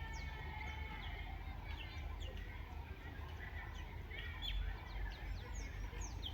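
Many small birds chirping and calling together in a morning chorus: a busy overlap of short, quick, downward-sliding chirps and brief twittering calls, over a low steady rumble.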